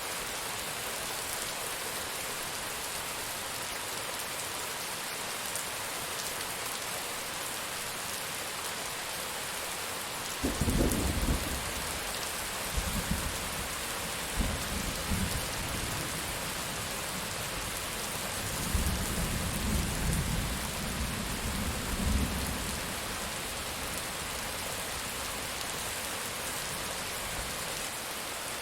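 Steady heavy rain with rolls of thunder: a sudden crack-onset rumble about a third of the way in, followed by several more rumbling swells before the thunder fades and only the rain remains.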